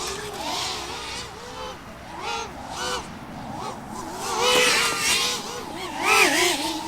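Racing hexacopter's six electric motors and propellers buzzing, the pitch jumping up and down with the throttle, like a swarm of angry wasps. It grows louder twice, about four and a half and six seconds in, as the drone passes close.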